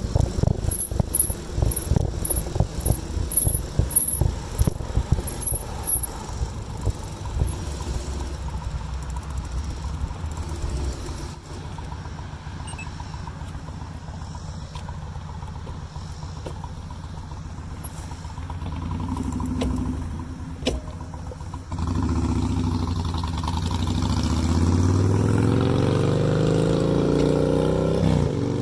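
Low gusty rumble on the microphone for the first ten seconds or so, then a motor vehicle's engine hum that grows louder and rises in pitch over the last several seconds.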